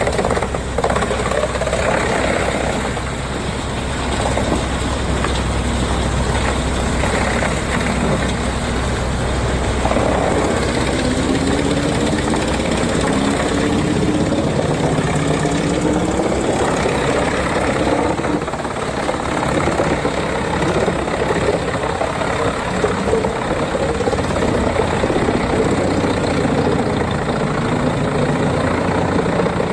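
Heavy wood chipper running under load. Its engine note sweeps up and down in pitch through the middle as it works.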